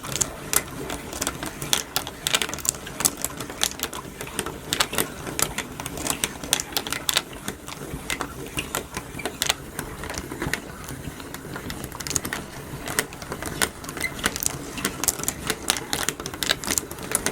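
Wooden marble run in motion: steel ball bearings rolling and clacking through the wooden track and lift mechanism. The clicking is rapid and irregular, with no break. The run is working but short on balls; a few more bearings are needed for it to run smoothly.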